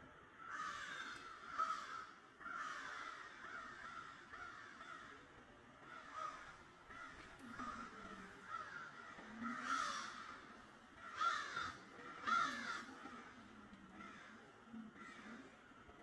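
Faint, harsh bird calls repeated at irregular intervals, about ten over the span, some short and some drawn out.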